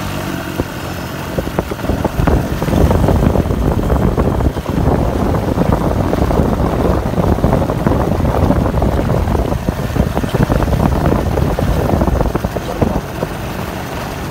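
A vehicle engine running while under way, with heavy wind buffeting on the microphone giving a rough, gusty rumble.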